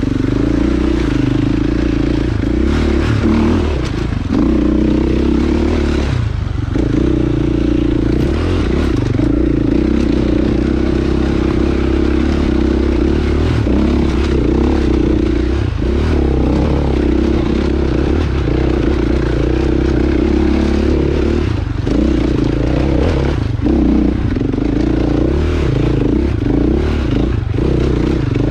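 Dirt bike engine running steadily under load on a trail, its note dropping briefly several times as the throttle eases and comes back on.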